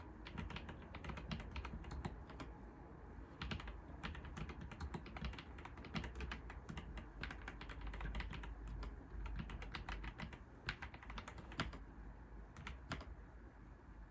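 Computer keyboard typing: runs of quick key clicks with brief pauses between bursts.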